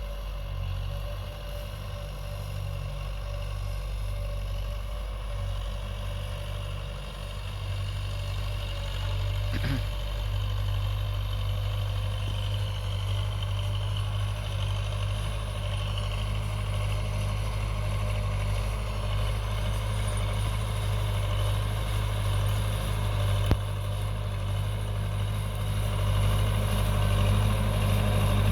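Tractor engine running steadily while pulling a field implement, a low steady hum that grows louder near the end.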